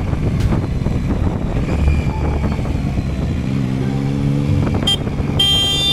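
Motorcycle riding, with a steady low engine rumble and road and wind noise. A pitched hum rises out of it a little past the middle, and a brief high-pitched tone sounds twice near the end.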